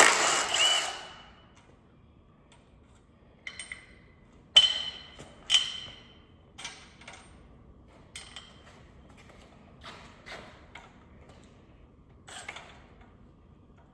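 Hand tools clinking on metal during cylinder-head bolt removal on an LS V8 engine. There is a short scuffling burst at the start, then about a dozen scattered sharp clinks and taps with a brief ringing tone. The two loudest come about a second apart near the middle.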